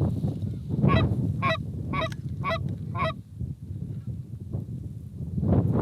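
Geese honking: five quick honks about half a second apart starting about a second in, then another near the end, over a low rumble.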